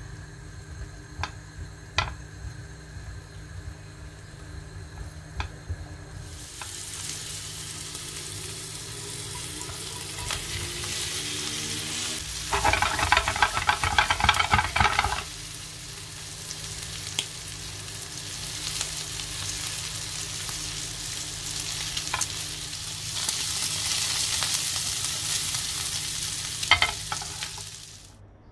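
Green pepper pieces and long tire köfte meatballs frying in melted butter in a nonstick pan, sizzling. In the first few seconds there are a few sharp clicks of plastic tongs on the pan. The sizzle swells about six seconds in, gets louder and rougher for a few seconds around the middle, and fades just before the end.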